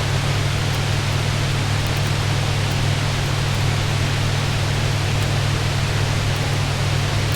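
Heavy rain drumming steadily on a roof, an even hiss over a strong low rumble, with faint sparse crackles from a fireplace mixed in.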